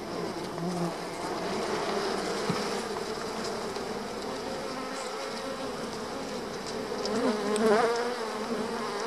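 Honeybees buzzing in a dense, continuous hum around an opened hive, the colony stirred up by the hive being worked. The hum swells with a wavering pitch near the end as bees fly close past.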